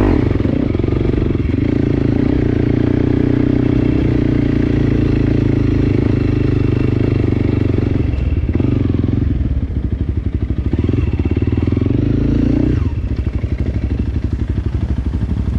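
Enduro dirt bike engine running loud and steady, then surging unevenly past the middle as the throttle is worked, and dropping to a lower, pulsing idle for the last few seconds.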